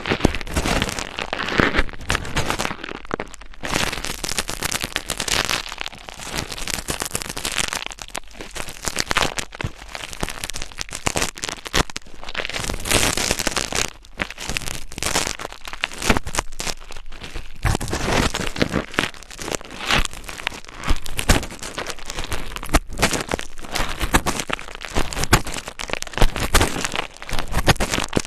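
Close-miked ASMR scratching and crackling: a dense, continuous stream of quick clicks and short scrapes.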